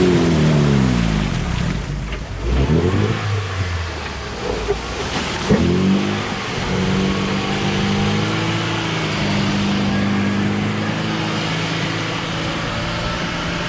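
UAZ off-road vehicle's engine revving hard, its pitch falling off in the first second, then blipped up and down twice around 2 to 6 seconds in, before holding a steady high note.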